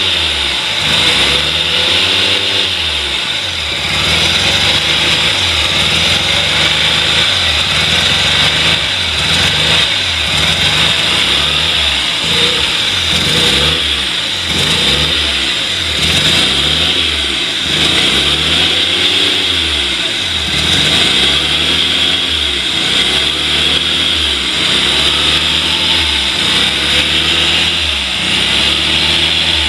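Mazda RX-7 FC3S's 13B two-rotor rotary engine running during an engine check, revved up and down over and over, a rise and fall about every two seconds.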